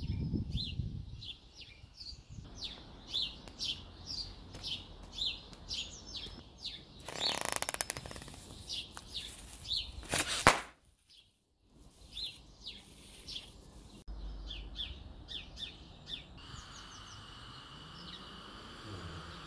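Garden birds chirping: a steady run of short, high falling notes, two or three a second. A brief rush of noise comes about seven seconds in, then a sharp click, and the sound drops out briefly just after.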